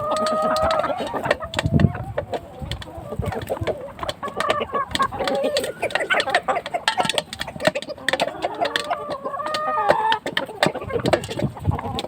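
A large flock of chickens clucking and calling over one another, a dense, continuous chorus of short calls, with a few longer drawn-out calls near the start and again about nine seconds in.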